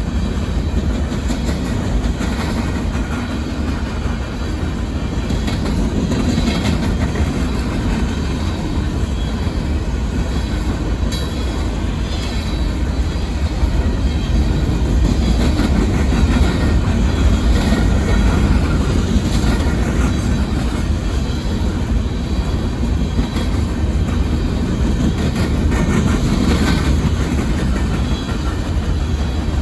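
Union Pacific coal train's cars rolling past, a steady rumble with the clickety-clack of wheels over the rail joints.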